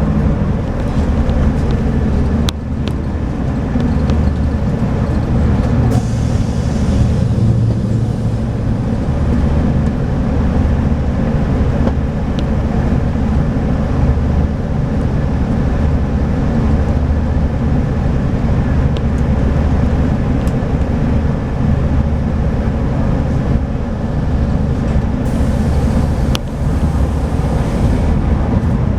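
Scania DSC9 diesel engine of a 2007 Scania K340IB coach running steadily, with a few sharp clicks and a brief hiss about six seconds in.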